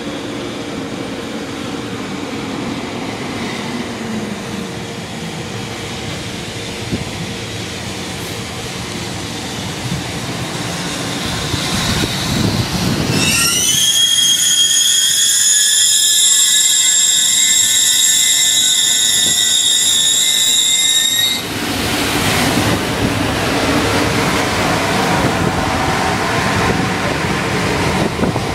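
Container freight train hauled by an EF210 electric locomotive running slowly into the station with a low rumble. About halfway through, a loud, high brake squeal starts and cuts off suddenly after about eight seconds as the train comes to a stop. A steady noise from the stopped locomotive follows.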